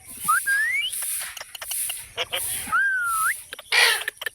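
Parrot whistling: a rising whistle near the start and a wavy, slurred whistle a little after two seconds in, with small clicks between. A short harsh squawk comes near the end.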